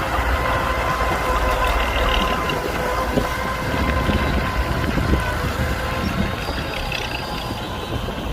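Heavy diesel machinery running steadily: a deep engine rumble with a steady whine above it.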